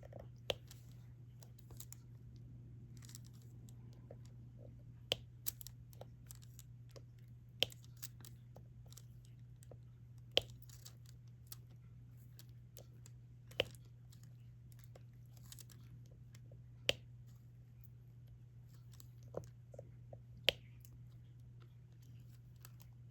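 Resin diamond-painting drills being pressed one at a time onto the adhesive canvas with a single-ended stylus: sharp, light taps every couple of seconds, over a faint steady hum.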